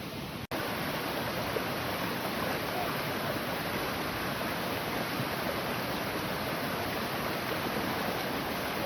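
Heavy rain pouring steadily. The sound cuts out for an instant about half a second in, then comes back a little louder.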